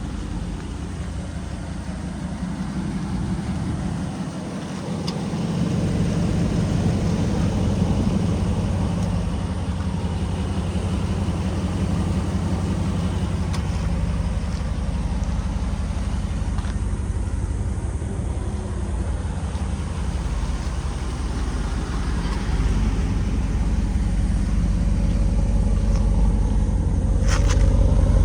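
2022 Jeep Wrangler 392's 6.4-litre Hemi V8 running through a Borla Type S exhaust, a steady deep exhaust note. It gets louder about five seconds in and again a few seconds before the end.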